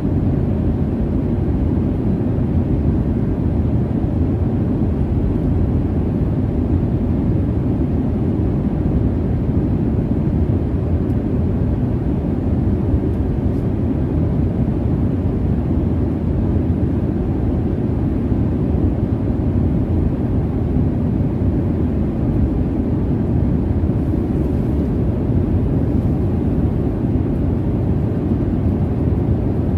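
Steady low jet-airliner cabin noise in flight: an even, deep rush of engine and airflow, unchanging throughout.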